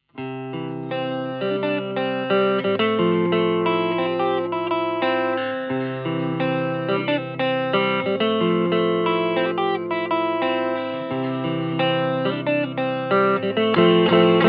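G&L Legacy USA electric guitar with Alnico V single-coil pickups played through a Hiwatt Custom 20 2x10 valve combo, starting suddenly after a brief silence with a run of ringing chords and notes that change every second or so.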